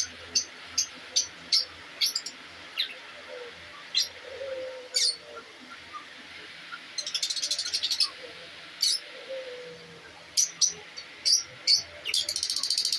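Aviary birds calling: a stream of short, sharp high chirps, with two quick chattering trills, one about seven seconds in and one near the end, and a lower drawn-out falling call twice.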